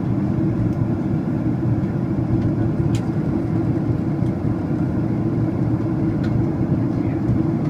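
Steady engine and airflow rumble inside the cabin of a Boeing 767-400ER on approach for landing, with a faint click about three seconds in.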